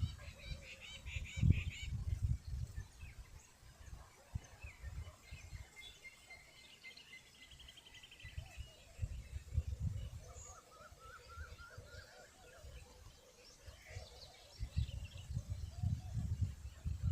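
Birds calling faintly: scattered short chirps and a brief trill, with low rumbles that come and go.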